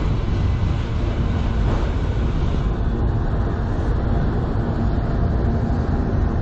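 Freight train of autorack cars rolling past: a steady rumble of steel wheels on rail, with a higher hiss above it that fades about three seconds in.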